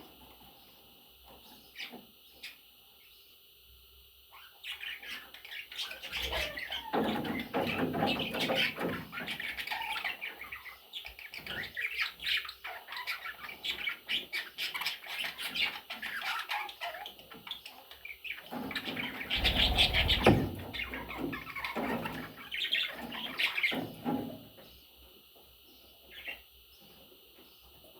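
Budgerigars chirping and chattering, busiest from about five seconds in until a few seconds before the end. Low thumps come in twice, the louder one about two-thirds of the way through.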